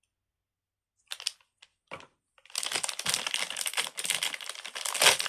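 Fidget toys being handled: a few short clicks, then continuous crinkling and rustling from about halfway through.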